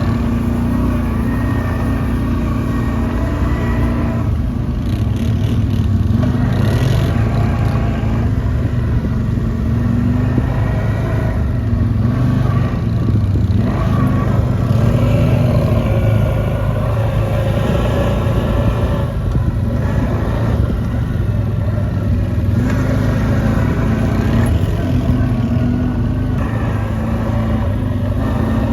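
Quad bike (ATV) engine running while riding, its revs rising and falling.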